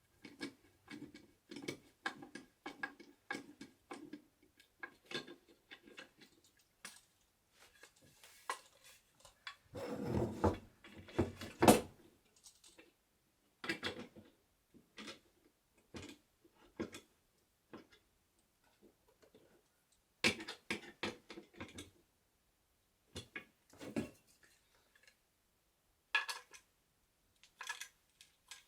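Wooden bed parts and metal fittings being handled during assembly: irregular taps, clicks and knocks, some with a light metallic ring. About ten seconds in there is a short scraping rub that ends in a sharp knock, the loudest sound here.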